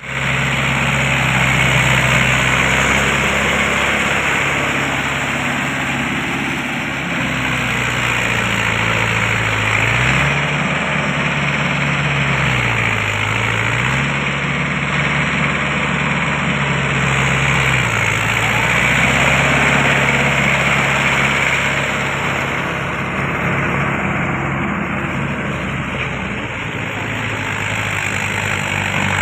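Mahindra Yuvo 575 tractor's four-cylinder diesel engine running steadily, its pitch dipping and recovering several times as it takes load, with a dense mechanical noise alongside.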